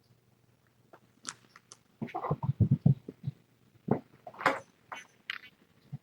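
Kittens moving about: a run of irregular clicks, rustles and short scuffling noises, busiest about two seconds in.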